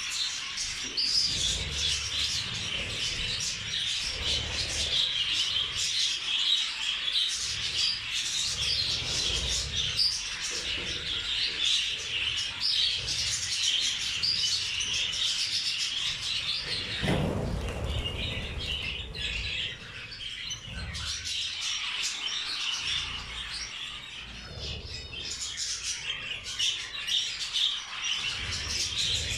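Budgerigars and zebra finches chirping and chattering together as a flock, without pause, with a short low rustle a little past halfway.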